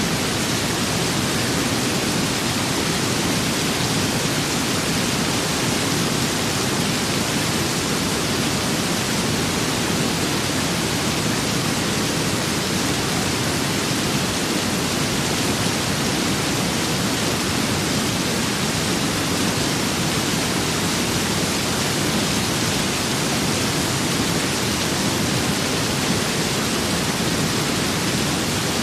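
Steady rain and wind ambience: an even, unchanging hiss with no distinct drops or gusts.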